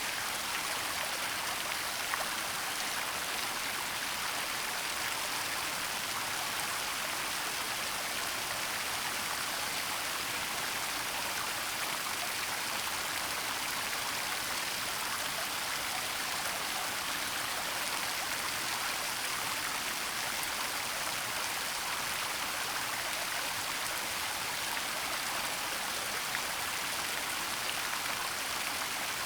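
Waterfall rushing steadily: an even, unbroken hiss of falling water, stronger in the high range than the low.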